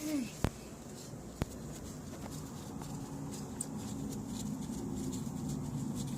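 Two sharp clicks of a hand tool on metal parts of a Buick 3.8 V6 engine as the water pump pulley bolts are worked loose, over a faint steady low hum.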